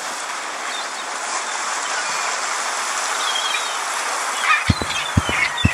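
Sea ambience: a steady wash of waves with birds calling over it. About two-thirds of the way in, a low regular thudding starts, about twice a second.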